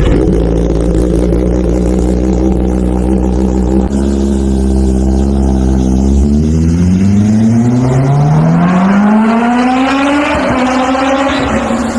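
Kawasaki Ninja ZX-10R inline-four engine through an SC Project full-system exhaust, running at a steady note. About six seconds in, the pitch climbs steadily for about four seconds, then levels off and eases back near the end.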